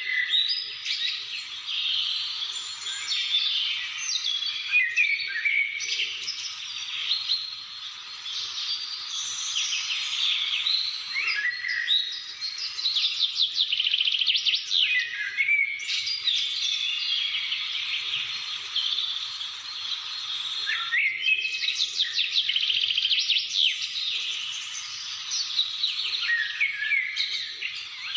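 Many songbirds singing and chirping at once, a dense chorus of overlapping trills, quick rattling notes and warbled phrases.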